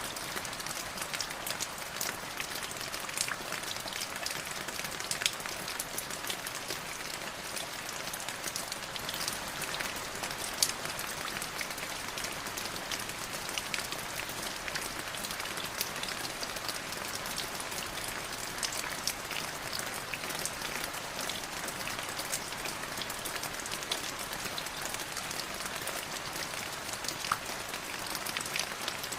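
Light drizzle falling steadily: a soft hiss of rain with many small, separate drops pattering on a surface, a few of them sharper and louder.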